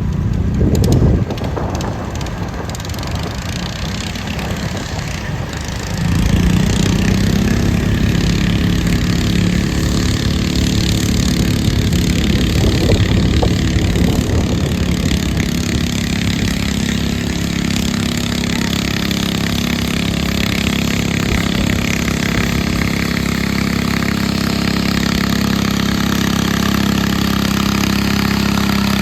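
Garden tractor engine running. It gets louder about six seconds in and then holds a steady note.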